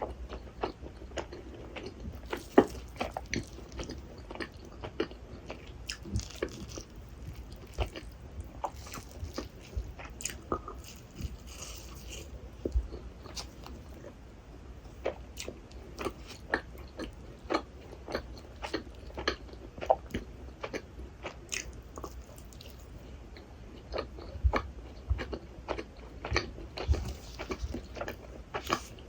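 Close-miked chewing of rasgulla, soft syrup-soaked cheese balls: a steady run of irregular sharp wet smacks and clicks from the mouth, a few a second.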